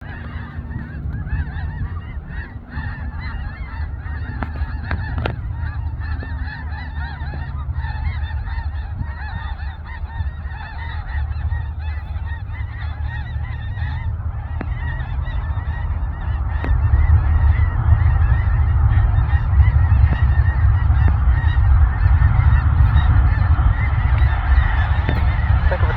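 A flock of Canada geese honking continuously, many calls overlapping. Beneath them runs a low rumble that gets louder after about 17 seconds.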